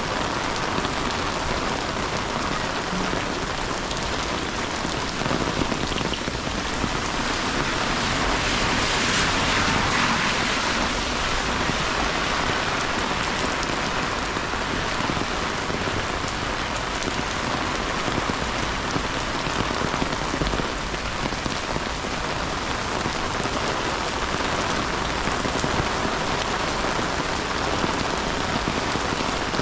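Steady, heavy rain falling on hard surfaces, a dense even patter that swells a little louder about a third of the way through.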